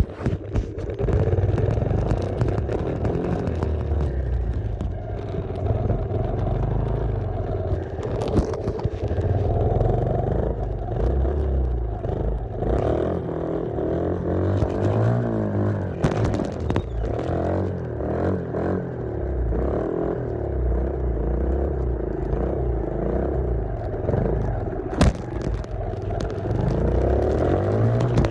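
Small off-road engine running while being ridden, its pitch rising and falling with the throttle, over a clatter of the machine bouncing along. A few sharp knocks, the loudest about 25 seconds in.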